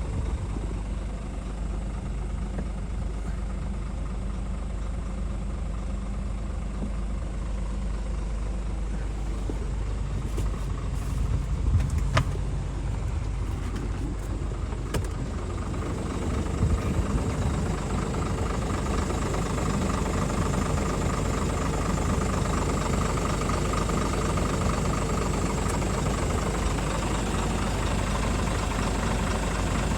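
Scania R450 truck's 13-litre six-cylinder diesel engine idling steadily, with a few sharp knocks near twelve seconds in, then running louder from about sixteen seconds on.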